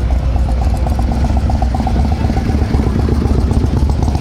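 Motorcycle engine running with a steady low, pulsing rumble.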